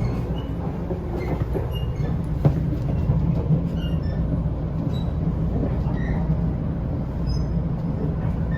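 Shinkansen train running on the Hakata-Minami Line: a steady low rumble with scattered faint, short high-pitched squeaks.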